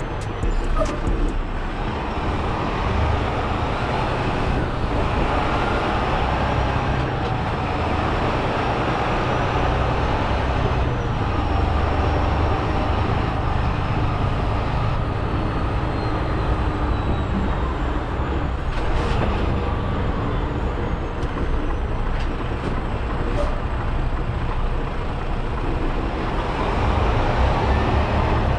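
Semi-truck on the move: steady diesel engine rumble mixed with road noise.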